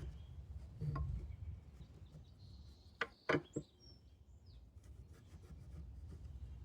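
Tools being handled on wooden boards during layout marking: a soft thump about a second in, then three quick sharp knocks about three seconds in, over a low steady rumble.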